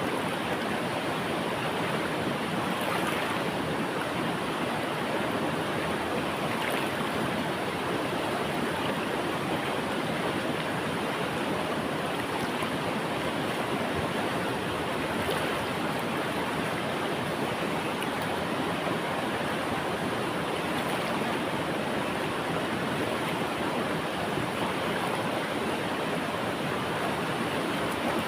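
Flowing river water, a steady rushing noise with faint splashes.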